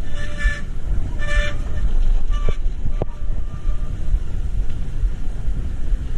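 Two short car-horn honks in the first second and a half, over a steady low rumble of traffic and road noise. Two sharp clicks follow a moment later.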